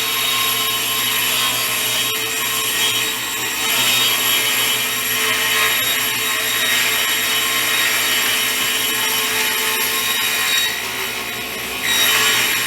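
A woodworking power tool running steadily against wood: a continuous rough noise over a steady hum, easing briefly near the end.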